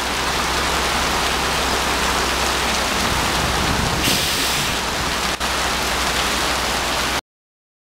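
Heavy rain falling on a paved street and roofs, a steady hiss that stops suddenly about seven seconds in.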